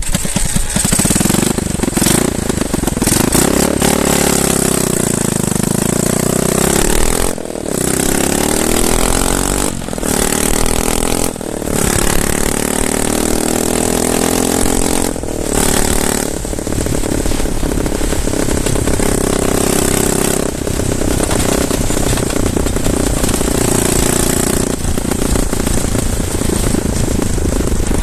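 Wooden motorcycle's cold engine running under way, revving up and down with a rough, angry note, the power dropping off briefly several times as the throttle is eased or gears change.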